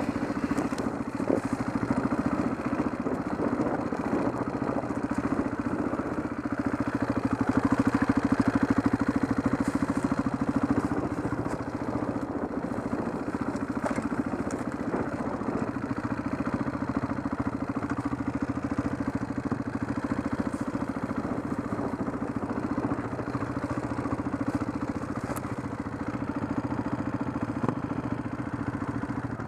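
Enduro motorcycle engine running steadily at low revs down a rough forest trail, a little louder about eight seconds in, with occasional knocks and rattles from the bike over the ground.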